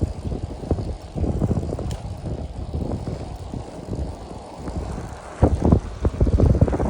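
Wind buffeting a microphone on a moving bicycle: an uneven low rumble that gusts louder near the end.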